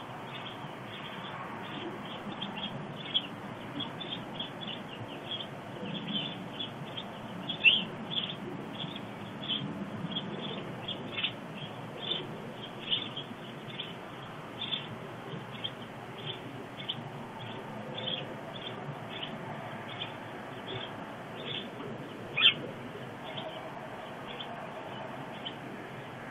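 Birds chirping over and over, short irregular calls, with two louder calls that drop in pitch, about eight seconds in and near the end, over a steady outdoor hum.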